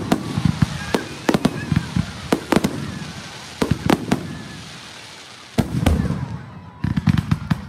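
Fireworks display: a string of sharp, irregularly spaced bangs from bursting aerial shells, each with a short echoing tail, and dense rapid crackling that breaks out around six seconds in and again near the end.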